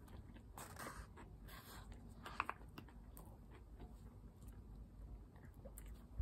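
Faint chewing of a mouthful of fried chicken sandwich with lettuce and pickles: soft crunches and wet mouth clicks, with one sharper click about two and a half seconds in.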